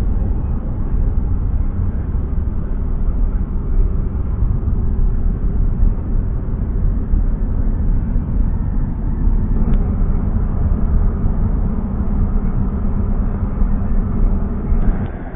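Steady low rumble of a pickup truck on the move: engine and road noise, with no sudden sounds.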